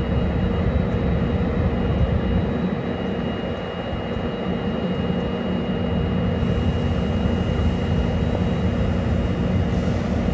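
Trinity Railway Express commuter train standing at the platform and idling: a steady low rumble with a faint, steady high whine.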